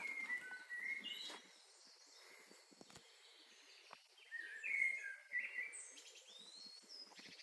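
A songbird singing two short phrases of clear whistled notes, one at the start and a louder one about four seconds in.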